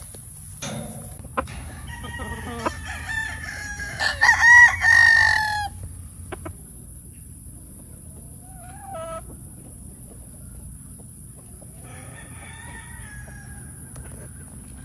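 Gamefowl rooster crowing: one long, loud crow of about four seconds that starts a couple of seconds in and ends on a held note. A short call follows a few seconds later, and a fainter crow comes near the end.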